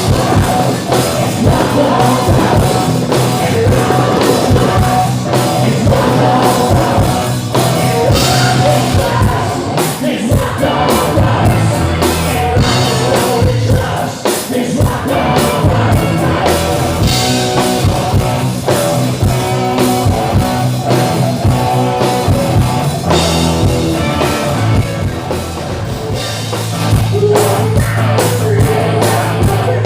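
Live hard rock band playing loudly: electric guitars, bass and drums with a singer.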